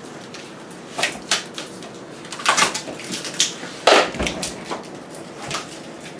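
Old protective plastic film being peeled off a stainless steel appliance panel, crackling and rustling unevenly, with sharper crackles about a second in and around four seconds. The film clings hard because it has aged on the steel.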